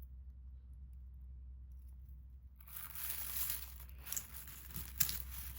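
Rustling and crinkling as a box of mixed jewelry is rummaged through by hand, starting about halfway in, with a few sharp clicks of pieces knocking together, the sharpest near the end. A steady low hum runs underneath.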